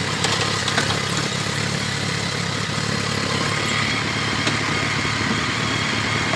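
Motorcycle engine idling steadily, with a couple of light clicks in the first second.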